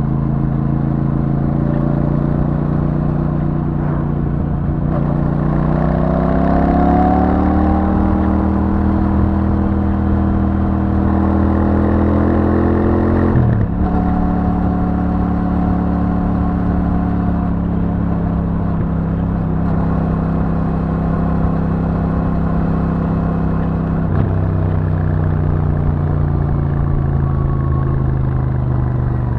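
Royal Enfield Super Meteor 650's parallel-twin engine through its stock exhaust, riding at cruising speed. It rises in pitch about five seconds in, drops with a gear change about halfway through, holds steady, then falls again as the bike slows near the end.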